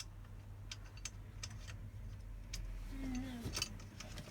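Scattered light clicks and taps of bolts and metal parts being handled while fitting the top bar onto a 3D printer's frame, over a steady low hum. A brief vocal sound comes about three seconds in.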